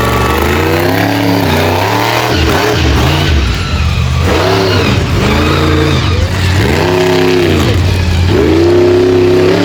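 Monster truck engine revving hard, several throttle blips that rise and fall in pitch over a steady low running note.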